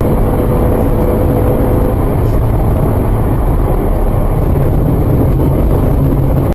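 Steady road and engine noise of a car driving, picked up by a dash camera, with a faint steady hum for the first two seconds; it cuts off suddenly at the end.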